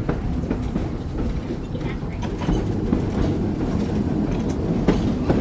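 Interior ride sound of a 1926 Wason-built wooden trolley car running on track: a steady low rumble of the wheels and motors with scattered clicks and rattles.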